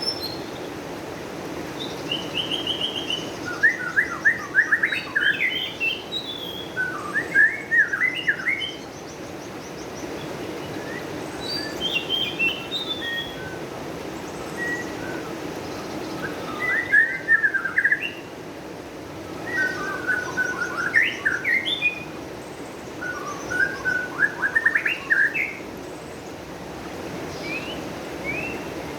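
Songbird singing, about six phrases of quick chirps and short whistles repeated every three to four seconds, over a steady low rushing background.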